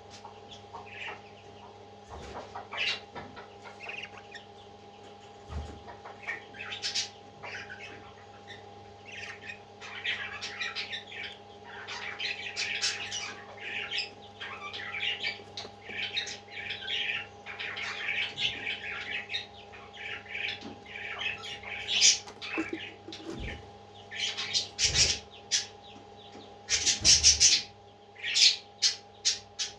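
Parrot chicks chirping and squawking in quick clusters of short calls, getting louder and more frequent in the second half, over a steady machine hum.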